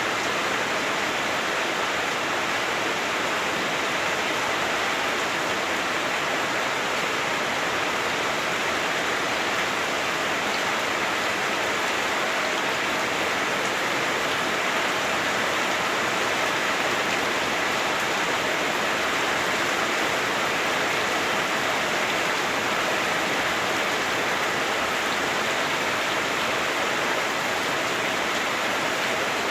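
Heavy rain drumming steadily on a house roof, heard from inside the house.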